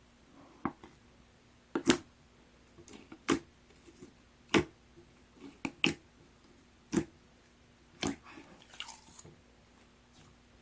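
Gold pearl slime being squished and pressed by hand, giving sharp wet pops and clicks about once a second with softer squelches in between.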